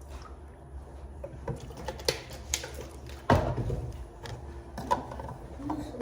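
Small objects being handled: scattered light clicks and knocks over a low hum, with one louder knock a little after three seconds in.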